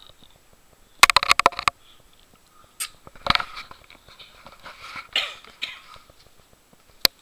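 Dog making a quick run of short, sharp sounds about a second in, then more scattered short sounds, with two sharp clicks near the end.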